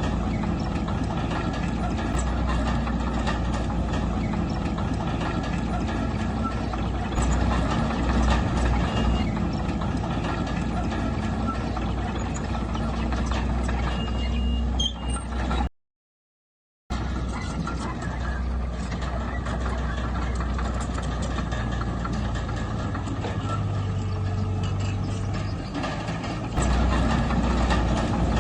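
Diesel engine of heavy earthmoving machinery running steadily under work, with a dense mechanical clatter over a low hum. The sound cuts out for about a second just past halfway, then carries on.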